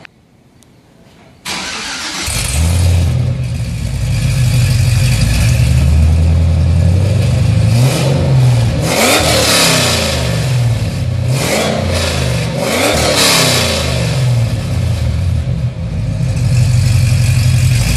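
2009 Cadillac CTS-V's supercharged 6.2-litre V8 breathing through Stainless Works long-tube headers, off-road test pipes (no catalytic converters) and cat-back exhaust. It starts about a second and a half in and idles with a deep, loud exhaust note. It is revved twice, the pitch rising and falling each time, before settling back to idle.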